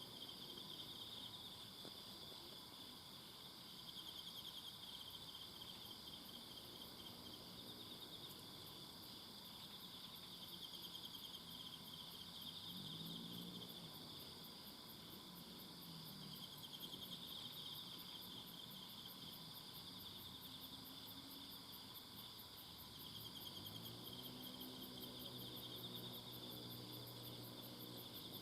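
A chorus of crickets and other night insects trilling at once: a steady, high-pitched, finely pulsing drone made of several overlapping voices. A faint low drone comes in briefly in the middle and again near the end.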